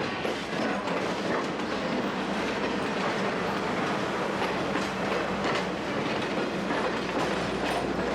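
Railroad car rolling along the track: a steady rumble with wheels clicking over rail joints.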